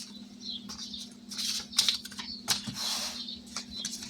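Paper bills and an envelope rustling and crinkling in short bursts as cash is handled and tucked into a savings envelope, with light clicks, over a steady low hum.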